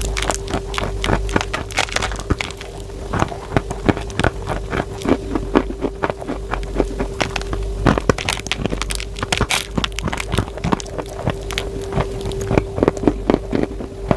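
Chalk being crunched and chewed in the mouth, a dense irregular run of sharp crackling crunches, several a second, with a steady faint hum underneath.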